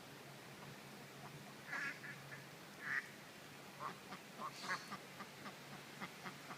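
Ducks quacking: a scattered run of short quacks, the loudest about three seconds in, over a faint steady low hum.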